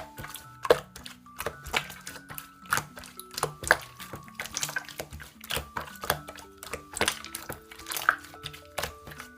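Slime being squished and poked, making irregular sharp clicks and pops a few times a second, over soft background music with held notes.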